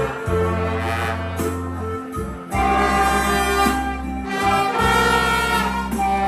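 Music: a band with brass and wind instruments playing long held notes over a steady bass line.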